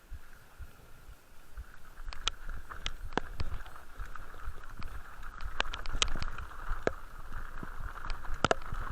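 Horse's hooves striking the ground at a walk: irregular sharp knocks a few times a second over a steady hiss.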